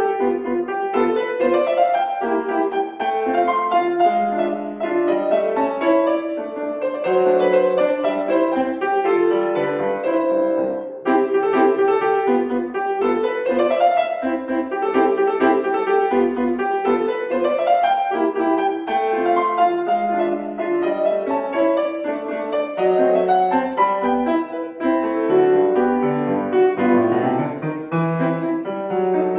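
Solo piano playing a classical piece: a flowing, continuous melody with rising figures over steady chords.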